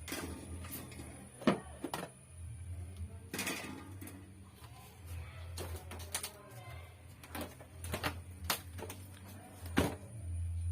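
Irregular clicks and knocks, as of objects being handled, over a low steady hum.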